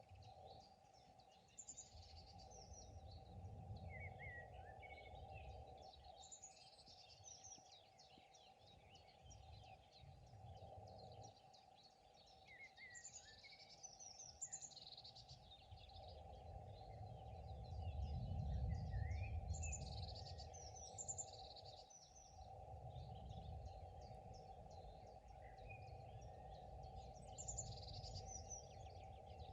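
Faint outdoor ambience of songbirds singing in short chirping phrases every few seconds, over a low rumble that swells and fades, loudest about two-thirds of the way through.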